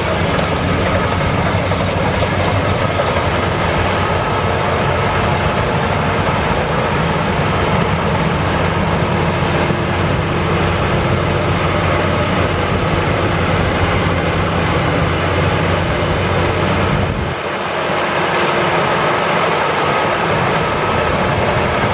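Maxxi Bimo rice combine harvester running steadily, its engine and threshing machinery making a constant mechanical din with a steady high tone above. About seventeen seconds in the low engine sound drops away for a moment, then comes back.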